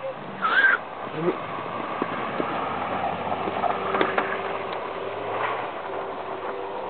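Car engine working hard as the car slides sideways through snow with its wheels spinning, a steady engine tone holding from about three seconds in. A brief loud high-pitched sound about half a second in.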